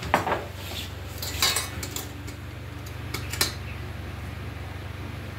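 Utensils clinking several times against a bowl or pot in the first few seconds while eggs are coated in batter, over the steady hum of an electric fan running at full blast.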